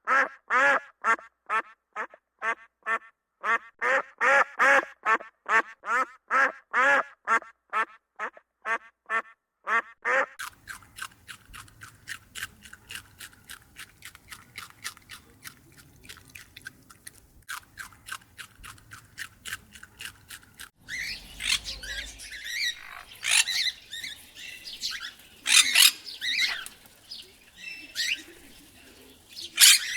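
Birds calling in three runs. First come about two loud calls a second for ten seconds. Then a faster run of quieter calls plays over a low hum, and harsher, noisier calls take over about two-thirds of the way through.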